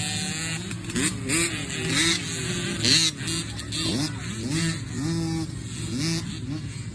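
Motocross dirt bike engines revving again and again, the pitch climbing and dropping once or twice a second as the riders open the throttle and shift.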